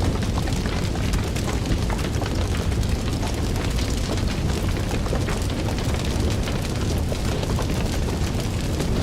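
Fire crackling: a dense, irregular run of small pops and snaps over a steady low rumble of the flames.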